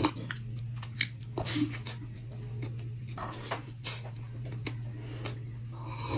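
Close-miked chewing of a cookie, with irregular mouth clicks and short wet smacks, over a steady low hum.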